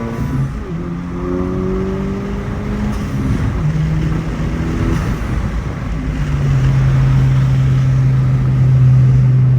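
Modified Honda Civic Type R FL5's turbocharged 2.0-litre four-cylinder engine and exhaust under way; the engine note steps down in pitch twice, about three and a half and six seconds in, growing louder, then holds a loud steady drone.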